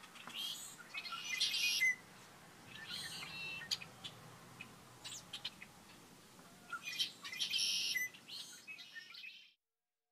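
Birds chirping and singing in several short bursts over faint low background noise, cutting off abruptly near the end.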